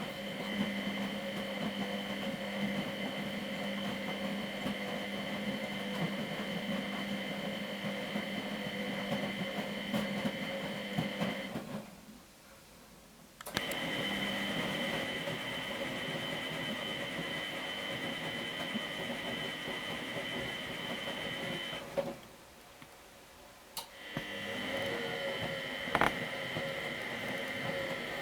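The drum motor of a Miele Professional WS 5426 washing machine turning the drum in a wash cycle, with a steady motor whine. It runs about eleven seconds, stops for about two, runs about eight more, stops again for about two and starts up again: the drum's back-and-forth reversing wash rhythm. A couple of short sharp clicks come in the second half.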